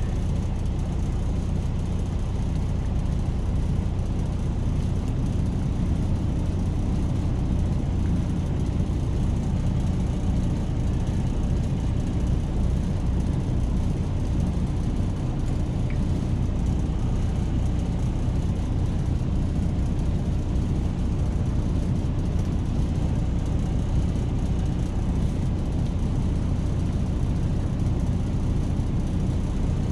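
Semi truck's diesel engine idling steadily, a constant low hum heard inside the cab.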